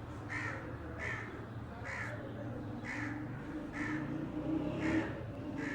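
A bird giving short, evenly repeated calls, about one a second, over a low steady hum.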